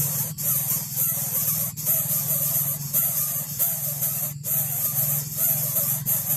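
Young greater coucal chick giving wavering, gliding calls over a steady loud hiss and a low hum.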